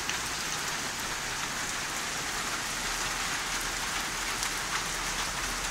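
Steady rain falling on a roof, a continuous hiss with scattered individual drop taps.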